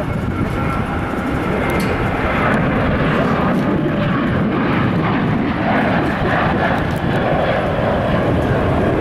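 Jet airliner engines, loud, with a steady dense rumble that grows a little louder about two and a half seconds in.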